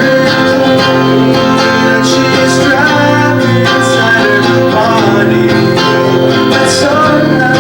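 Live band music with strummed guitars playing steadily.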